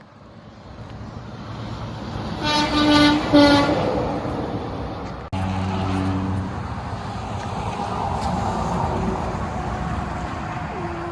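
Semi truck's air horn sounding two short blasts over rising engine and tyre noise as the truck approaches. After a sudden break, a heavy engine drones steadily as it passes.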